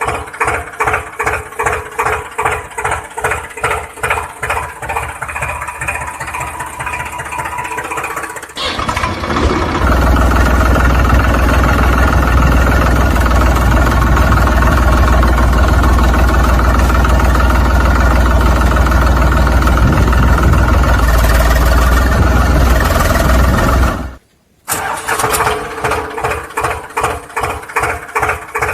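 Engine sound chugging with a regular beat of about three pulses a second. About a third of the way in it changes to a steady, louder run with a deep rumble, then drops out for about half a second before the chugging beat resumes near the end.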